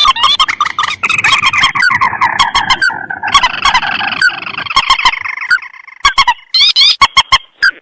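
Lure recording of rice-field rails and crakes (mandar and tikusan) calling together: rapid, loud, repeated sharp notes with rising strokes, thickening into a dense run of overlapping calls midway, then a short lull before the sharp notes resume.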